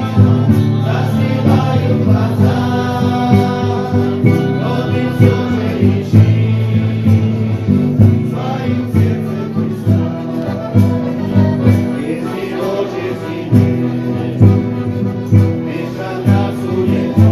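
Christian song: voices singing together over instrumental accompaniment with a steady beat.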